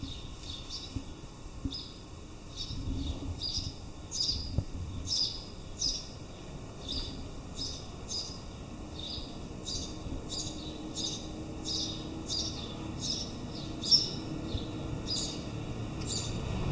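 A bird chirping over and over, short high calls about two a second, over a steady background hiss.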